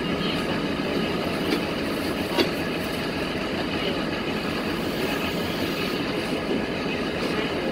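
Passenger train coaches rolling past at speed: steady rumble of wheels on the rails, with one sharp click about two and a half seconds in.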